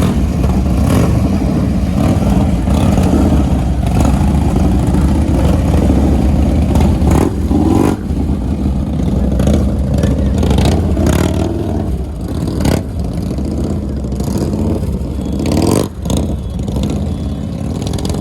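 Motorcycle engines running and revving, with a steady low rumble and scattered clicks and knocks.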